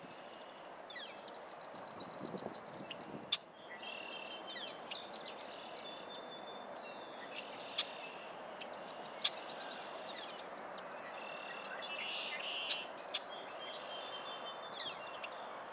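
Small birds chirping and twittering over a steady background hiss, with a few single sharp clicks scattered through.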